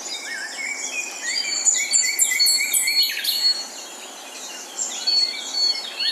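Several birds calling together: a chorus of short, overlapping high-pitched chirps and whistles. It is busiest in the first half, thins out a little past the middle and picks up again near the end.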